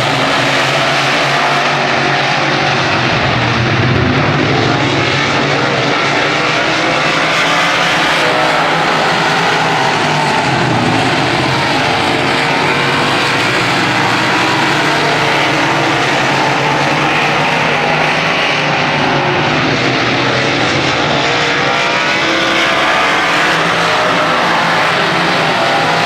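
Several racing engines running together at speed, a dense, steady drone of overlapping engine notes that rise and fall slightly as the vehicles circulate.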